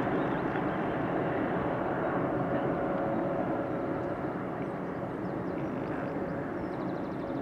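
Jet engines of a Boeing 747 freighter climbing away after takeoff: a steady rushing roar with a faint hum in it, slowly fading as the aircraft departs.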